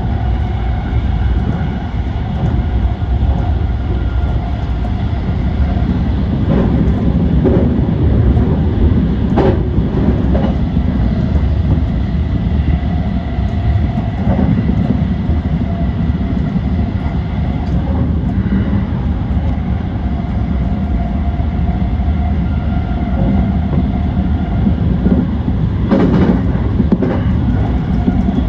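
JR East E235-1000 series electric train running along the track: a steady rumble with a faint steady whine, and a few sharp clacks from the wheels over rail joints or points.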